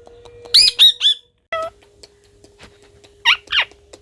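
Pet parrot calling in short squawks: three quick calls about half a second in, another at about one and a half seconds, and two more near the end.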